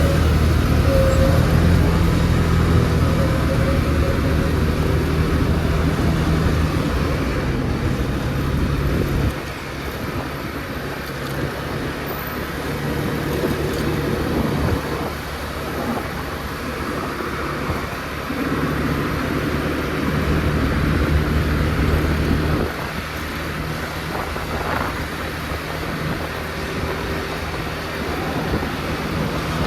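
Motor scooter engine running while riding, over road and wind noise; the engine hum is louder for the first third and again for a few seconds later on, dropping off suddenly each time.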